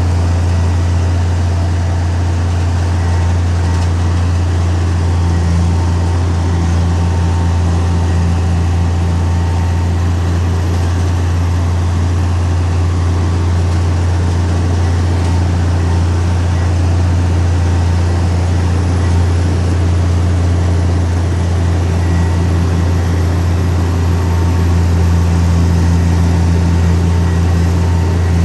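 Heavy diesel engine of earthmoving machinery running steadily, a deep, even drone.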